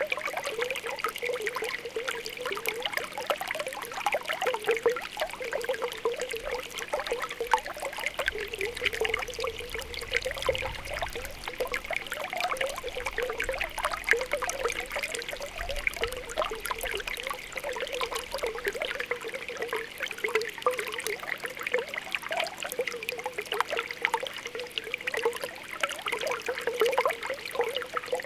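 Spring water welling up from the ground, bubbling and popping continuously with an irregular patter of small pops over a steady trickle.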